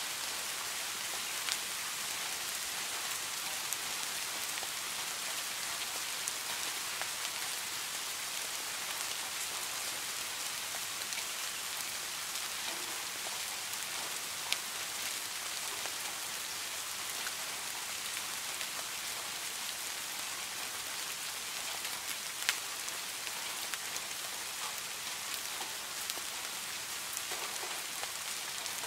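Steady rain falling on a small garden fish pond: an even hiss of drops on the water, with now and then a single sharper drop plinking out above it.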